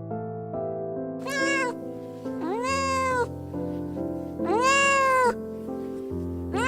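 A cat meowing three times, each meow rising and then falling in pitch, with a fourth starting at the very end, over background music with steady held notes.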